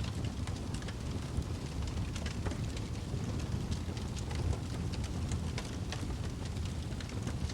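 Fireplace fire crackling: frequent small pops and snaps over a steady low rumble, with one louder pop about four and a half seconds in.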